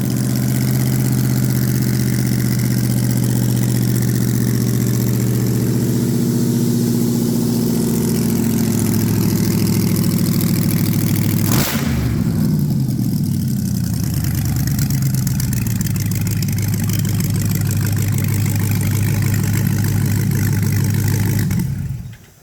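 Dodge Hellcat supercharged 6.2-litre HEMI V8 crate engine running at a fast idle, really loud. About halfway there is a sharp click, then the engine note falls and settles to a lower steady idle. The sound stops near the end.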